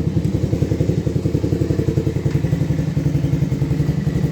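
Chinese motorcycle engine idling steadily just after a cold start, with an even, regular pulse.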